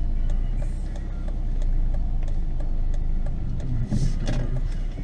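Five-cylinder turbocharged petrol engine of a 2004 Volvo S60 2.0T, heard from inside the cabin with a steady low hum as the car pulls away. A few light clicks sound over it.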